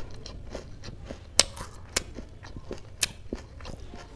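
Close-up chewing of crisp papad, with a few sharp crunches, the loudest about a second and a half in.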